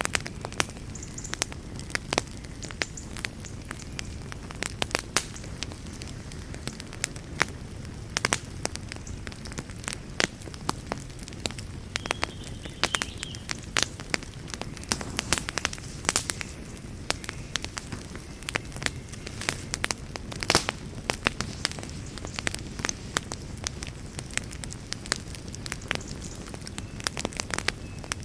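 Wood campfire burning: irregular sharp crackles and pops over a low, steady rumble of flames, with a louder pop about twenty seconds in.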